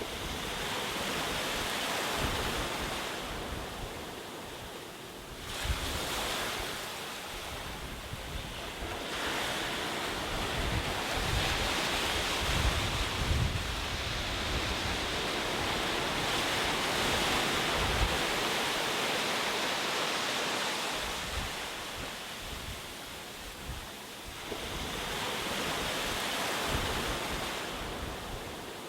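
Ocean waves breaking and washing on a shore, the surf swelling and ebbing in several slow surges, with wind noise on the microphone.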